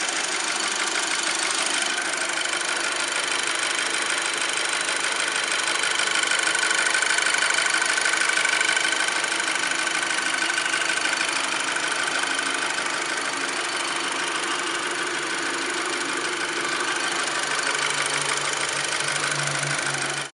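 Volkswagen GTI Mk V's 2.0-litre turbocharged four-cylinder FSI engine idling steadily, fitted with or compared against a Neuspeed P-Flo cold-air intake, swelling slightly in loudness about seven seconds in.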